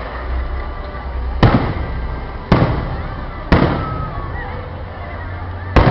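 Fireworks shells bursting overhead: four sharp bangs about a second apart, the last after a longer gap, each trailing off in a rumbling echo.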